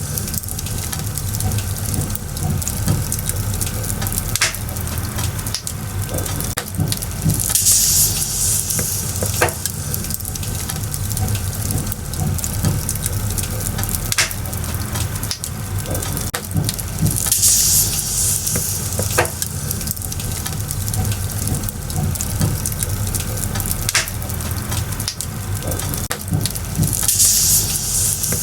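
Firewood burning in a bonfire: a steady crackle with scattered sharp pops, and a hissing swell that comes and goes three times, about ten seconds apart.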